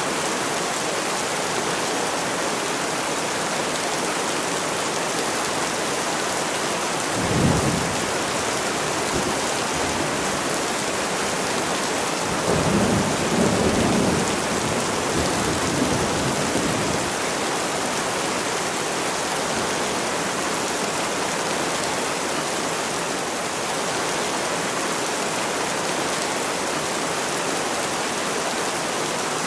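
Steady rain falling, with thunder rumbling twice: a short roll about seven seconds in and a longer, deeper roll from about twelve to seventeen seconds in.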